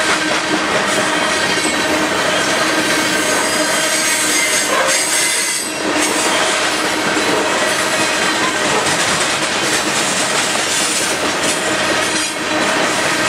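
Loaded covered hopper cars of a freight train rolling past close by: a steady loud clatter and rush of steel wheels on rail, with thin high ringing tones running through it. The noise dips briefly twice, about six and twelve seconds in.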